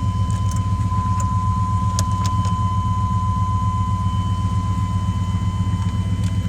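1998 Chevy Silverado Z71 engine idling, a steady low rumble heard from inside the cab, with a steady high-pitched tone over it and a couple of faint clicks about two seconds in.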